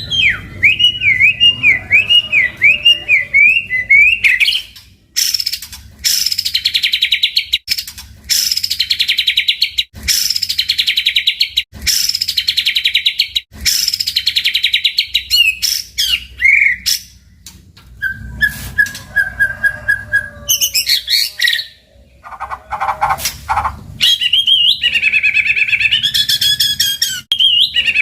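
White-rumped shama (murai batu) singing loudly: a varied song of quick zigzag notes, strong phrases repeated about once a second, a fast run of one repeated note and a rich warble near the end. This is lure song, played to get a silent or stressed shama singing.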